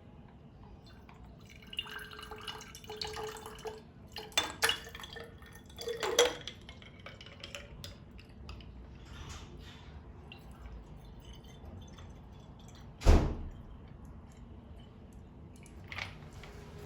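Dishes and glassware being handled: scattered clinks and taps, some briefly ringing, with one louder knock about thirteen seconds in.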